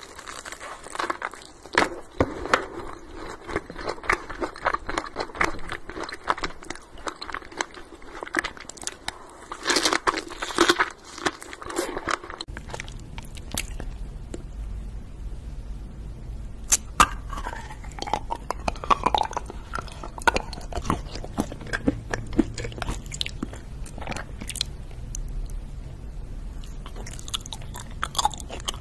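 Close-miked biting and chewing of sweets. The first part is crunchy, with dense crisp crackles as a coated strawberry and candies are bitten. About twelve seconds in, the sound turns to softer, sticky chewing of chocolates over a faint low hum.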